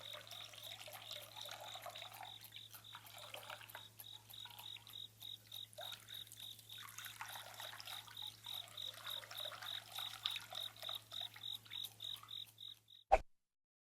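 Faint nature ambience: a high chirping call repeated about three to four times a second over a trickling, water-like haze and a low steady hum, cutting off near the end, followed by two sharp clicks.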